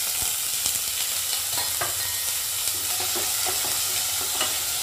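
Pieces of elephant foot yam sizzling steadily in hot oil in a nonstick pan as they are sautéed, stirred with a wooden spatula that gives a few light knocks against the pan.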